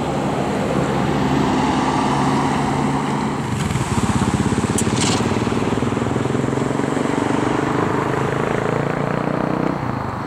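A motor vehicle's engine running close by as it drives past, its pulsing growing loud about four seconds in and easing near the end. A couple of sharp clicks sound about five seconds in.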